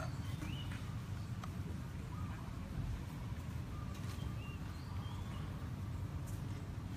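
A few short bird chirps now and then, over a steady low rumble.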